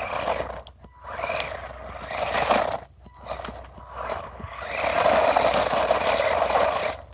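Small electric RC stadium truck driving hard, its motor whining and tyres scraping over the ground in about four surges as it accelerates and spins, the longest near the end.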